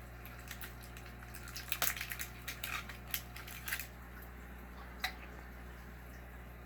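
A flurry of quick splashes and clicks at the aquarium's water surface as blood parrots strike at bloodworms, then a single sharp click a few seconds in, over a steady low hum.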